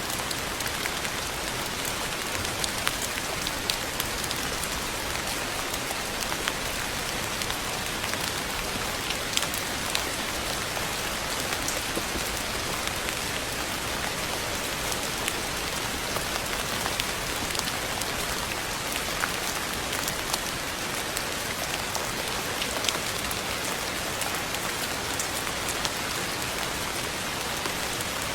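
Steady rain falling and pattering on a surface, with many small, distinct drop ticks scattered through an even hiss.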